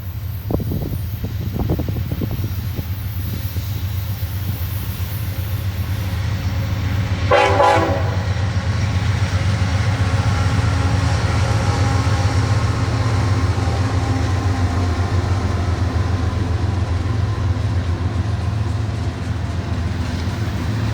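Diesel-electric freight locomotive running past with a steady low rumble, sounding one short horn blast about seven seconds in.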